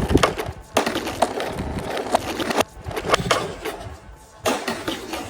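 Toy tractor and trolley rolling and clattering on a hard surface, in several runs broken by short pauses, with sharp knocks of plastic on a hard surface.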